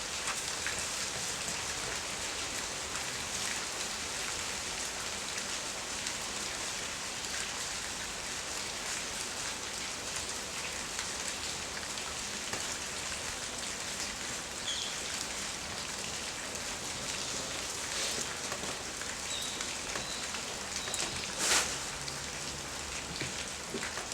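Steady rain falling, with a dense patter of drops. A single louder sharp sound comes through about three seconds before the end.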